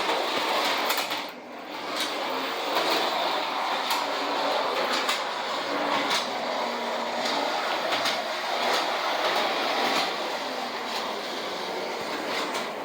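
Early Lionel toy trolleys running on metal track: a steady electric-motor whir and wheel rumble, with frequent clicks from the wheels on the rails.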